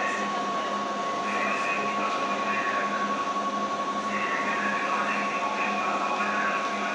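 Railway platform ambience beside standing electric trains: a steady high-pitched whine and a low pulsing hum run under a general background noise, with faint broken voices now and then.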